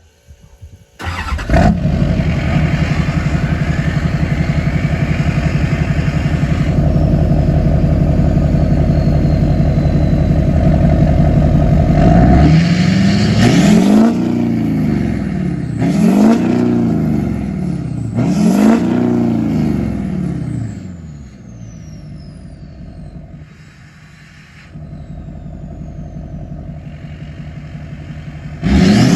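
LBZ Duramax 6.6-litre V8 turbo-diesel running through a 5-inch straight pipe with an axle-dump tip. It runs loud and steady from about a second in, then is revved three times in quick succession around the middle, each rev rising and falling. It settles to a quieter idle and is revved once more at the very end. The truck's tune gives it a rumble at idle that a stock, untuned Duramax lacks.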